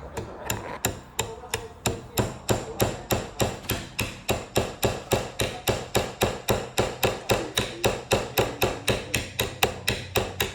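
A hammer tapping a nail into a wooden board, with quick, even blows about three a second.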